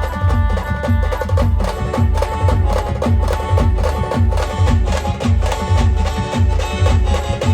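Marathi band playing an instrumental dance tune: held melody notes over heavy bass and a steady, busy drum beat.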